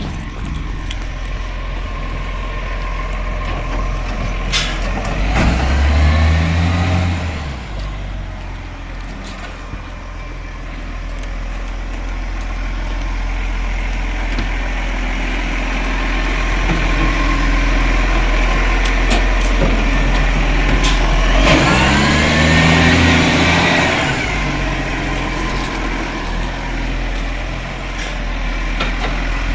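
Garbage truck's diesel engine running steadily, revving up and back down twice: once about six seconds in and again about twenty-two seconds in, each rev lasting two to three seconds.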